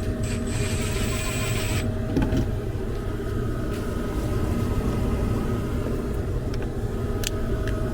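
A 96% gas furnace and its blower running: a steady low rumble of the motor and moving air with a faint steady hum above it. A short hiss in the first two seconds and a few light clicks near the end.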